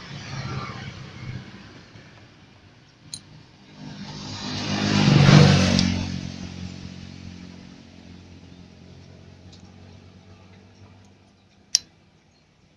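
A motor vehicle engine passes by, rising to a peak about five seconds in and then fading away. Two sharp clicks sound, one about three seconds in and one near the end.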